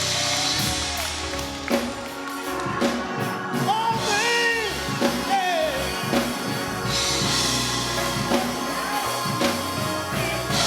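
Live church music: a sung voice over a band with a drum kit keeping the beat and held chords underneath.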